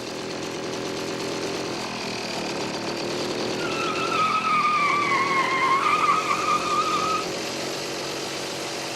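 Old car engine running hard and labouring under load, with a high squealing whine that dips and rises for a few seconds in the middle.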